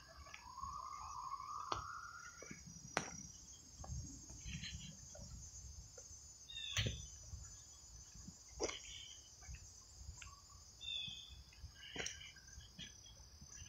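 Steady high-pitched chorus of crickets and other insects, with scattered sharp clicks and soft crunches of footsteps on a wooded trail. A few short bird chirps come in, including a rising whistle near the start.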